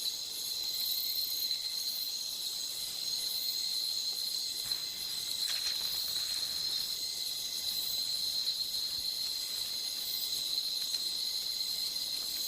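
Night-time rainforest insect chorus: a steady, shrill trill of crickets or katydids, with more insect buzzing higher up. A faint brief rustle comes around the middle.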